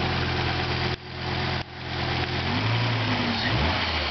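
Volvo 850 T5R's freshly installed turbocharged 2.3-litre five-cylinder engine idling, about 15 minutes after its first start. The sound cuts out briefly twice about a second in, and in the second half the engine note shifts up and down.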